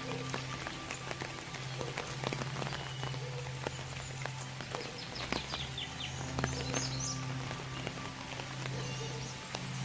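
Rain pattering as many small scattered drops, over a steady low hum.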